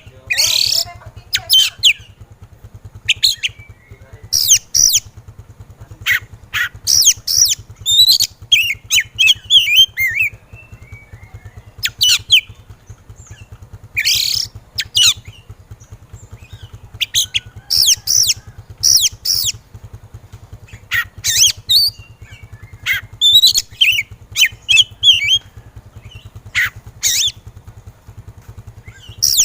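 Oriental magpie-robin (kacer) singing in agitated, aggressive mode: quick clusters of harsh, rasping notes mixed with short whistled chirps, broken by brief pauses. A faint steady low hum runs underneath.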